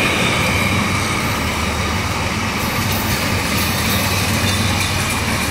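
A freight train's empty flat wagons rolling past on the rails: a steady rumble of steel wheels on track, with a faint high squeal in the first couple of seconds.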